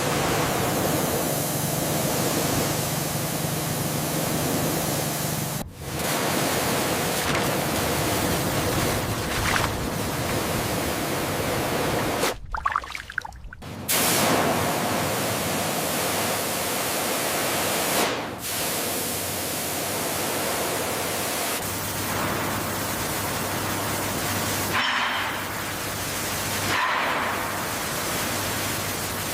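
Pressure washer jet spraying steadily onto a slime-coated steam locomotive, a hard even hiss with a low pump hum beneath, stopping briefly a few times and starting again.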